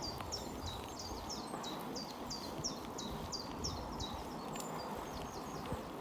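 Steady rolling and wind noise of a bicycle ride, with a fast run of short high chirps, about three or four a second, that stops shortly before the end.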